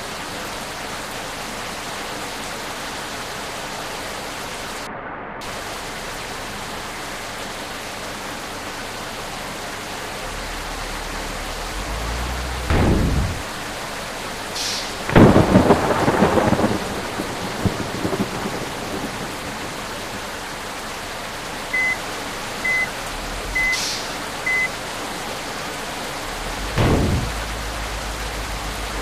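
Steady rain with thunder rumbling three times, the longest and loudest rumble about halfway through. Four short high beeps, about a second apart, sound a little before the last rumble.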